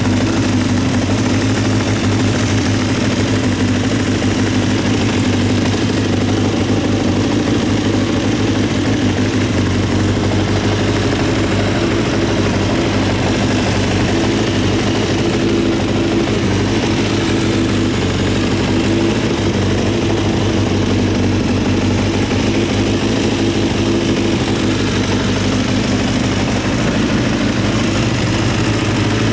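Honda CBX550F2 Integra's air-cooled inline-four engine idling steadily.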